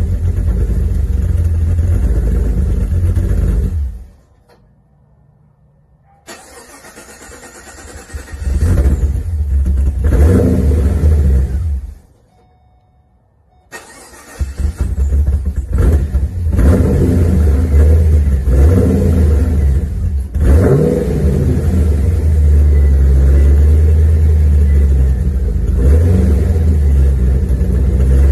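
Pontiac G8's 6.0-litre L76 V8, fitted with an aftermarket SS1 camshaft, running loud through the exhaust and revved with several sharp blips of the throttle. The sound drops to near silence twice for about two seconds, about four seconds in and again near the middle.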